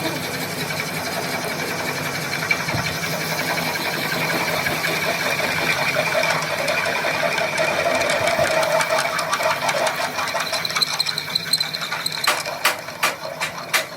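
A power tool runs steadily on metal with a high, held whine. Near the end it gives way to a quick series of sharp metallic taps or clicks.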